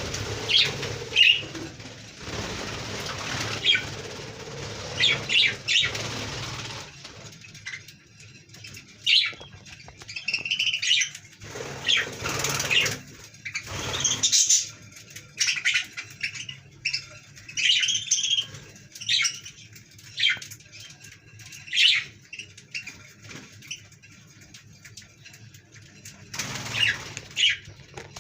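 Budgerigars chirping in many short, high calls, with bursts of wing flapping.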